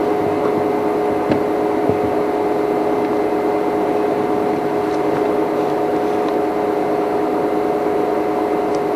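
Steady mechanical hum holding two fixed pitches over a low rushing haze, with two faint ticks about a second and two seconds in.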